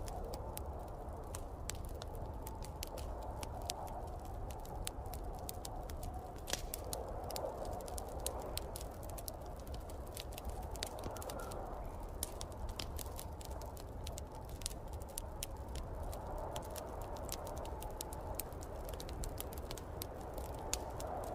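Wood fire crackling with frequent sharp pops, over the low, steady rush of snowstorm wind that swells and eases every few seconds.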